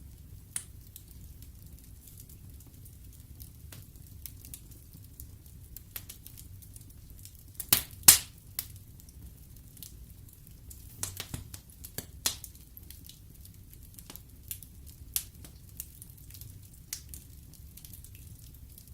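Wood fire burning in a fireplace, logs crackling: scattered sharp pops over a low steady rumble of the flames. The loudest pops come about eight seconds in, with a quick cluster a few seconds later.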